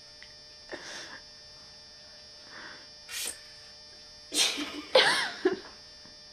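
A person sneezing loudly about four seconds in: a sharp noisy burst, then a short high voiced cry. A few softer breathy sounds come before it.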